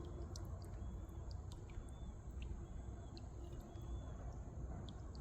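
Faint outdoor river ambience: a steady low rumble and a thin steady high hiss, with light scattered clicks and short, faint high notes repeating about once a second.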